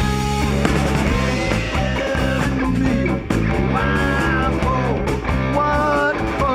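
Rock band playing an instrumental passage: a guitar lead with bent notes over bass and drums.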